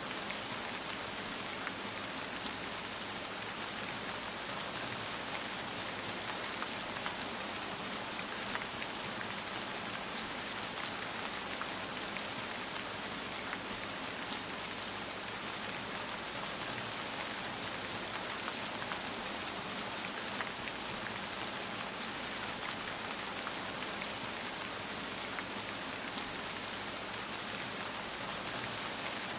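Steady rain falling, an even hiss of many small drops with no changes or thunder.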